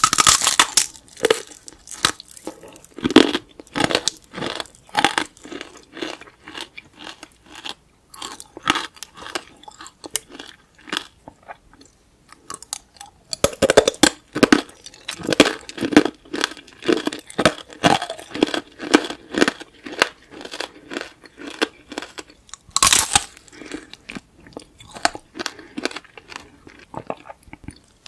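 Close-up crunching and chewing of tanghulu: the hard candied sugar shell cracking between the teeth in rapid sharp crackles, in bursts with short pauses, as the fruit inside is chewed.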